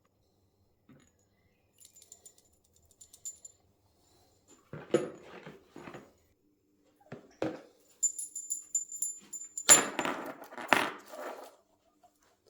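Small zinc-plated bolts clinking and rattling against each other and a container: a few light clinks, then several louder knocks and jangling with a thin metallic ring.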